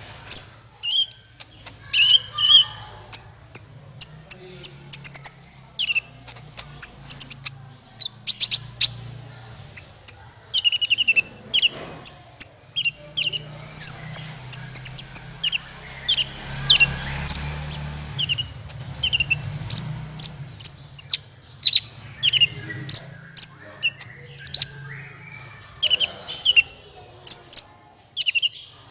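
Sunbird of the kind Indonesian bird-keepers call kolibri ninja, singing a continuous string of sharp, high chirps and quick little trills: a lure call of the sort played to draw in wild birds of its kind.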